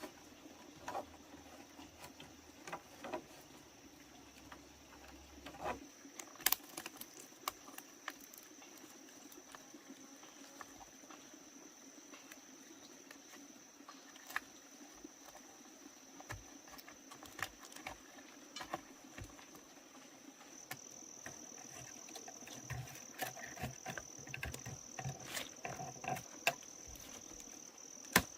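Insects keep up a steady, high-pitched trill. Scattered light clicks and knocks run through it.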